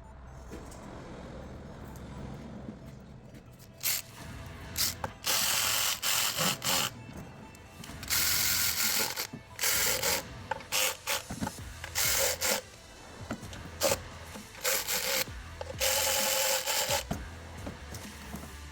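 Hand-tool work: an irregular series of short mechanical ratcheting and rubbing noises, starting about four seconds in and stopping near the end.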